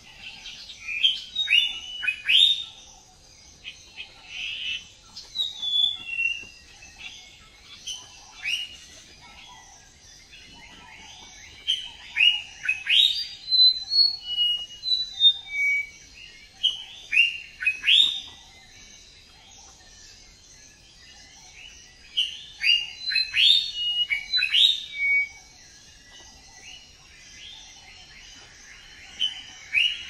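Songbirds chirping and calling in bursts of quick, falling chirps, with quieter gaps between, over a steady high hiss.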